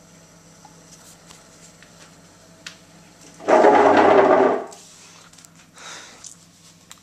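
Neff integrated dishwasher's drain pump humming steadily while the tub stays full of water: the drain pipe is blocked up or the drain system has a fault. About halfway a loud rushing noise lasts about a second, and a shorter, softer one follows near the end.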